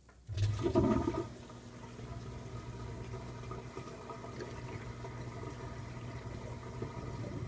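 2012 LG top-load washing machine's drain pump starting up: a sudden rush and gurgle of water for about a second, then steady pumping with a low hum as the drum drains after the rinse.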